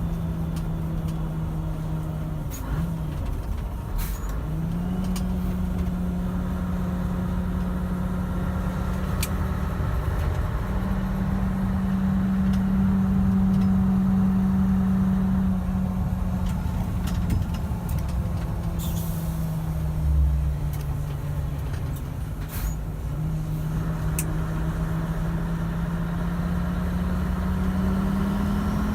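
Scania 143 500's V8 diesel engine pulling under way, its note dropping at each of several gear changes and then climbing again as the truck gathers speed. A few short clicks and a brief hiss of air come through over it.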